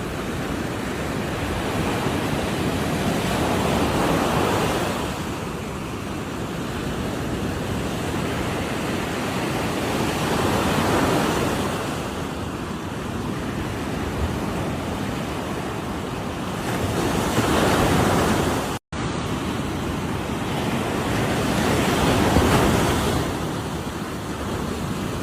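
Ocean surf: waves breaking and washing up the shore in slow swells, four in turn. The sound drops out for an instant about three-quarters of the way through.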